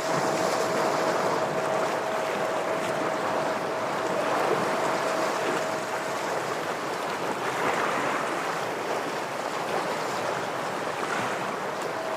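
Ocean waves washing against shoreline rocks: a steady surf hiss that swells every three to four seconds. A steady tone runs under it and stops about halfway through.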